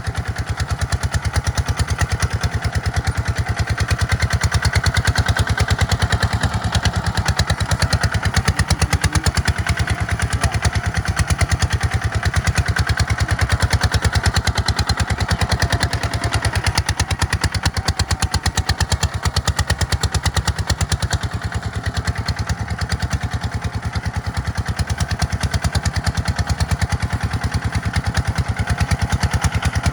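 Two-wheel walking tractor's engine running steadily with a fast, even chug.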